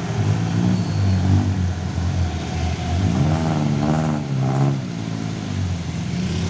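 Heavy truck engine labouring up a steep climb, its pitch rising and falling as it pulls.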